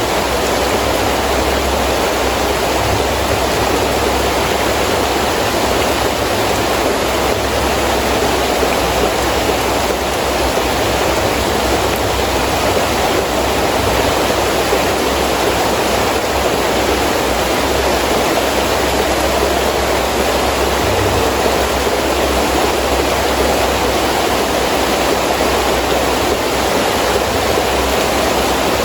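Heavy rain falling steadily as a dense, even hiss, with a low rumble of wind underneath.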